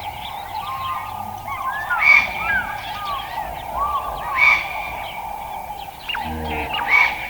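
Several birds chirping and calling over a steady background drone, with a louder call about every two and a half seconds.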